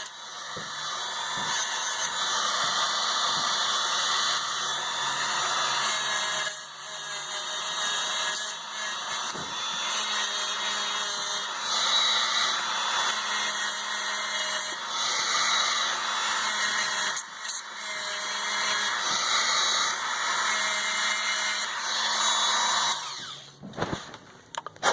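Small handheld power tool running for about 23 seconds, its sound rising and falling as it works against the part, then cutting off near the end.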